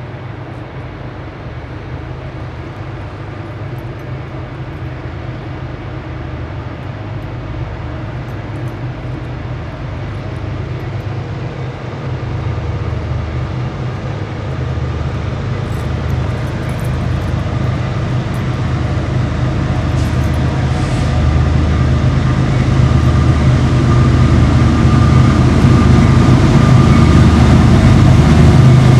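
Diesel-hauled freight or passenger train approaching, its locomotive engine rumble growing steadily louder throughout.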